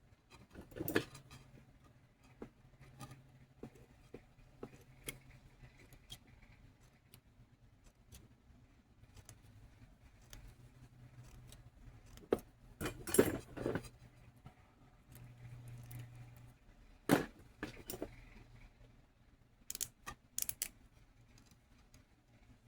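Small metal tools and pieces clinking, clicking and tapping at a jeweler's workbench, in scattered sharp clicks with busier clusters a third and three-quarters of the way in. A low hum comes and goes underneath.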